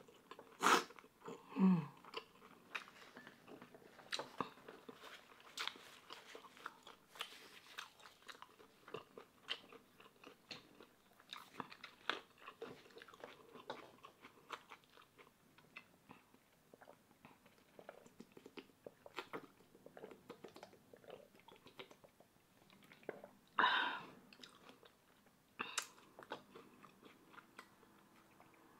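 Close-miked eating sounds: chewing and wet mouth noises with many small irregular clicks. Sips from a plastic water bottle come in between. A few louder clicks and clatters stand out near the start and twice near the end.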